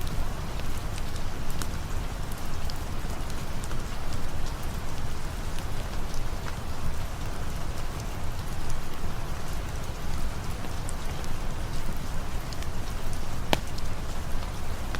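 Steady rain falling, mixed with a campfire that crackles now and then; one louder pop comes near the end.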